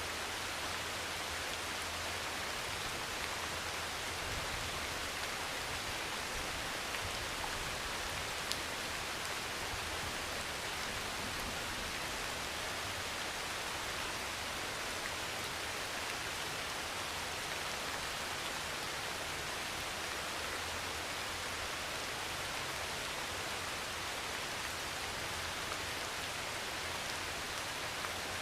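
Heavy rain pouring steadily on a metal roof, a dense even hiss with a few faint drip ticks scattered through it.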